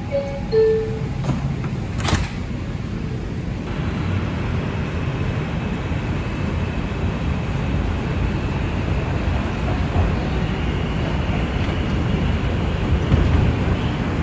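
Door chime of an R142 subway car, two short tones falling in pitch, then a thump about two seconds in as the doors shut. From about four seconds in the train pulls away, and its running noise grows louder and then holds steady.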